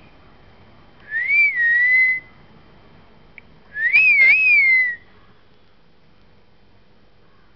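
A parrot whistling: two clear whistles, each about a second long and wavering up and down, the second about three seconds after the first.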